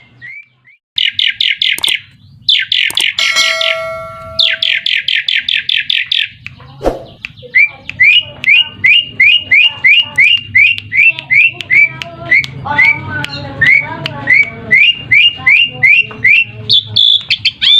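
Asian pied starling calling: three bursts of rapid chattering notes, then a long series of short rising whistles, about two a second.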